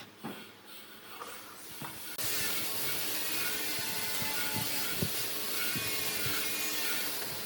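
A few scattered knocks, then about two seconds in a woodworking power tool starts abruptly with a loud, steady hissing noise, with light knocks over it.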